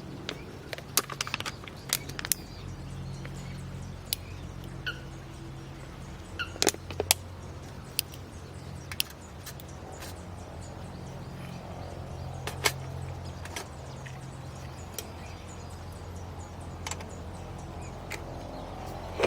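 Irregular sharp clicks and cracks, most frequent in the first half, over a steady low hum.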